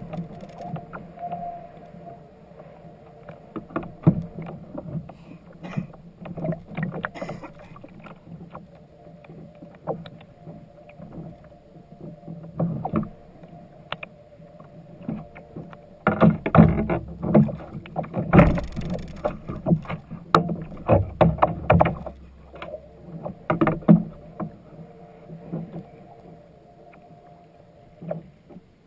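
Water splashing and irregular knocks against a fishing kayak's hull, growing busier and louder for several seconds past the middle.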